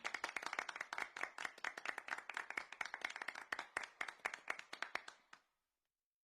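A small group clapping after a song ends. The clapping thins out and stops about five seconds in.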